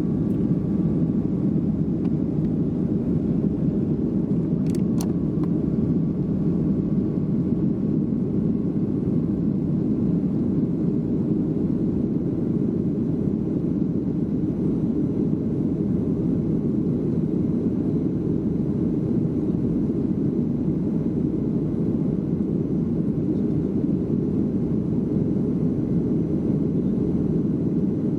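Airliner cabin noise in flight: a steady, low drone of engines and airflow that does not change. Two faint clicks come about five seconds in.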